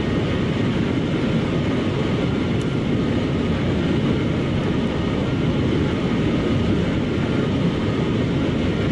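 Steady road and wind noise of a car driving at high speed, heard from inside the car, with a deep rumble and no sudden events.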